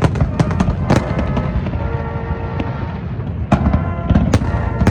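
Fireworks going off in quick succession: a steady low rumble of booms with many sharp bangs and crackles.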